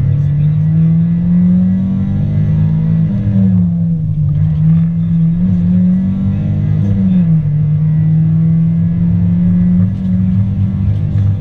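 Opel Astra GSi rally car's four-cylinder engine driven hard, heard from inside the cabin. Its pitch climbs and then drops quickly about three seconds in and again about seven seconds in, holding steady in between.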